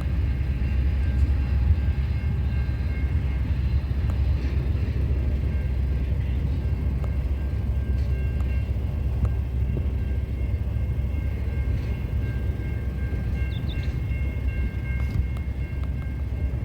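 Freight train rolling past: a steady low rumble of wagons on the rails, with faint high steady tones running through it.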